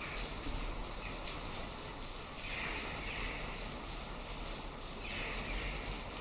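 Steady rain falling, with drops pattering on surfaces. Two brief higher sounds come through it, about two and a half seconds apart.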